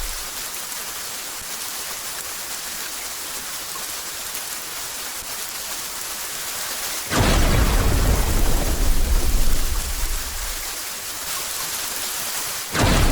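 Steady rain hiss. About seven seconds in a thunderclap breaks in suddenly and rumbles for about three seconds before dying back to the rain, and another clap starts right at the end.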